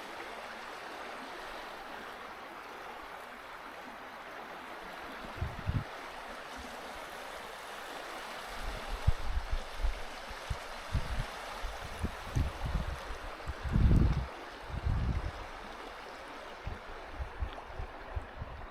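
A river swollen by storm rain, rushing steadily past. Irregular low rumbling bumps come in from about five seconds in, loudest around fourteen seconds.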